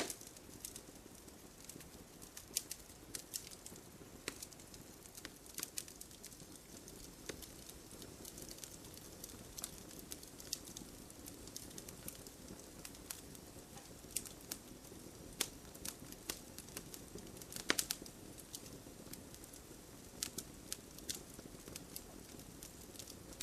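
Wood campfire crackling: irregular sharp pops and snaps over a soft low hiss, with a louder cluster of pops about eighteen seconds in.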